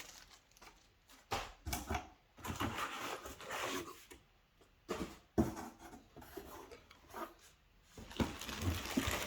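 Packaging rustling and crinkling in short irregular bursts, with a few sharp knocks, as vacuum cleaner parts and accessories are handled and taken out of their wrapping.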